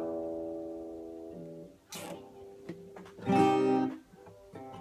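Acoustic guitar strumming chords. The first chord rings and slowly fades, then a light strum comes about two seconds in and a louder one about three seconds in.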